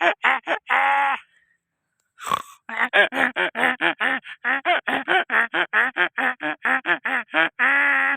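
Donkey braying: a long held note, a pause of about a second with a short sharp noise, then a fast run of short hee-haw pulses, about six a second, ending in another long drawn-out note near the end.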